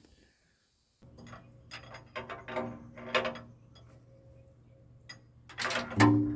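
Metal engine parts and hand tools clinking and clanking as they are handled, several strikes leaving a short metallic ring, the loudest clank near the end, over a steady low hum.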